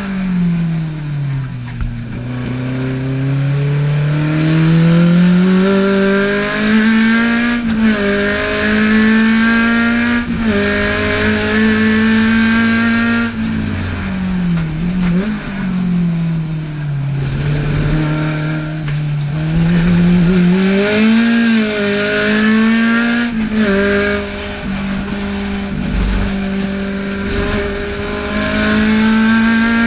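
Tuned Alfa Romeo twin-cam four-cylinder engine of a GT Junior, heard from inside the cabin, revved hard on track. Its pitch climbs and drops again and again as it is worked through the gears.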